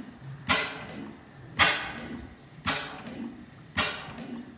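5 HP Hornsby-Akroyd hot-bulb oil engine running slowly: a sharp bang about once a second, four in all, each fading out, with lighter mechanical ticking between them.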